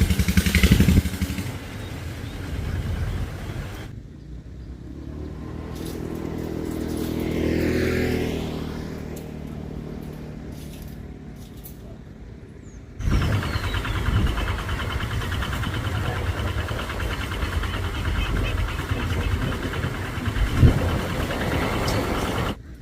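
Motor vehicle engines running in several cut-together segments. One engine rises and falls as it passes, loudest about a third of the way in. A louder, steady engine runs from a little past halfway until a sudden cut near the end.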